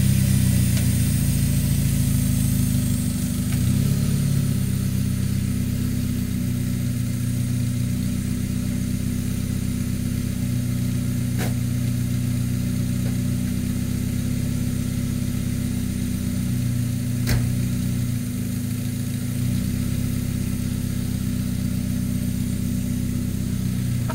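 Mazda Miata 1.8-litre BP four-cylinder engine, swapped into a Datsun Roadster, running at low speed near idle, its pitch stepping slightly up and down. Two sharp clicks sound about six seconds apart partway through.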